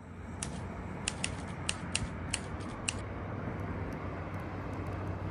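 A run of about seven sharp mechanical clicks at uneven spacing, stopping about three seconds in, over a steady low hum.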